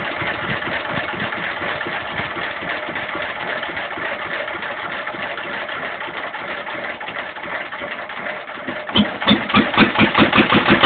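A 1926 Bernard W2 engine running steadily. About nine seconds in, its beats turn loud and distinct, about three a second.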